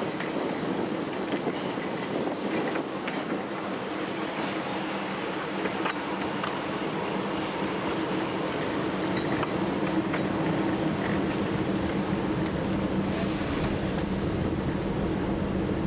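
TU7 narrow-gauge diesel locomotive's V12 engine running steadily while under way, with steady wheel and track noise and scattered clicks from the rails.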